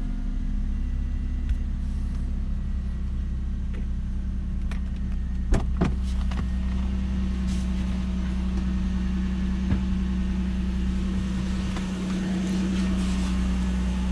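2000 Lexus SC300's 2JZ-GE inline-six idling steadily shortly after a cold start, with two short clicks about five and a half seconds in.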